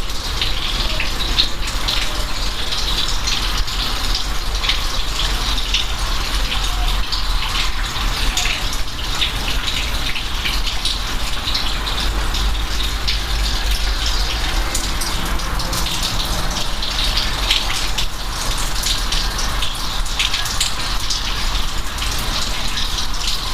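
Steady rain with a dense patter of individual drops, over a low, steady rumble.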